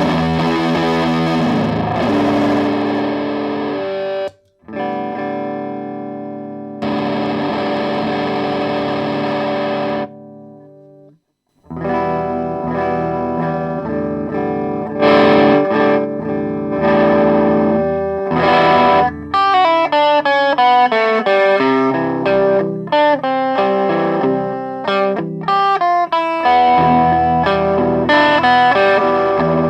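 Distorted electric guitar played through an overdrive/distortion pedal, fuzz-like in tone: held chords ringing out with two short breaks, then quicker single-note lines in the second half.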